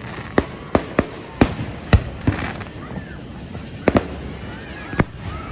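Aerial fireworks bursting: about nine sharp bangs in quick, irregular succession, some in close pairs.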